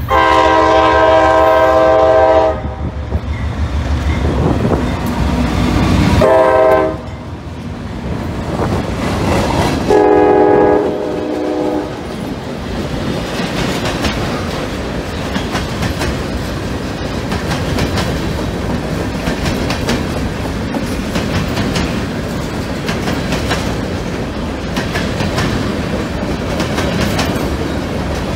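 GE B36-7 diesel locomotive blowing its air horn three times: a long blast at the start, a short one about six seconds in and another long one about ten seconds in, over the engine's low rumble as it passes. Then empty covered hopper cars roll by with a steady clickety-clack of wheels over rail joints.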